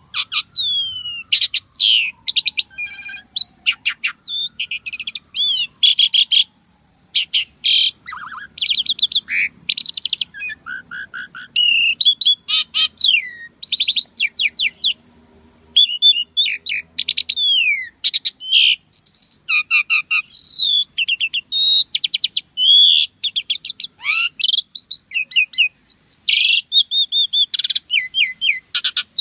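Asian pied starling singing energetically: a fast, varied run of chattering notes, whistles and rising and falling glides, delivered in short phrases with brief gaps.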